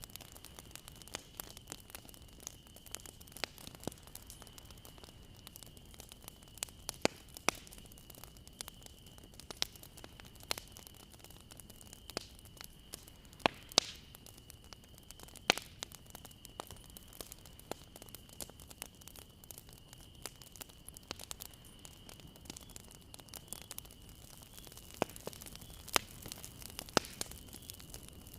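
Wood fire crackling: irregular sharp pops and snaps over a soft hiss, with a faint steady high-pitched tone underneath.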